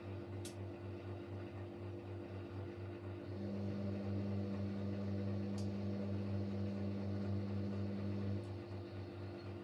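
Siemens Siwamat Plus 574 front-loading washing machine running steadily through an intermediate spin between rinses. A second, higher hum joins about three seconds in and cuts off about five seconds later, with two faint ticks along the way.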